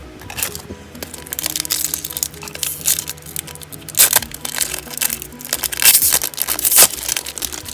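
Foil card-pack wrapper crinkling and crackling as it is handled and torn open, in quick irregular rustles with the sharpest crackles about four seconds in and twice near the end, over background music.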